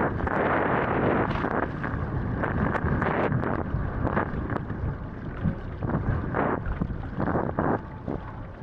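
Wind buffeting the microphone over steady rushing water, with repeated short splashes, as a wing foil board rides across the sea.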